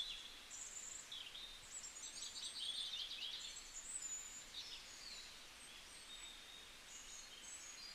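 Several birds calling faintly: short high chirps, whistles and quick trills from different birds, with a rapid rattling trill about three seconds in, over a faint steady outdoor hiss.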